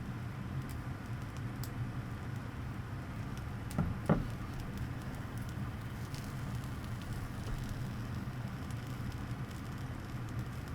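Faint crackling and sizzling from a charcoal fire in a small tabletop grill, over a steady low hum. Two knocks close together about four seconds in are the loudest sounds.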